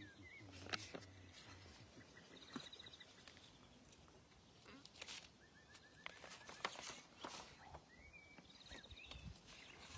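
Faint birdsong: short trilled phrases of rapid repeated notes, heard three times, with a few soft clicks.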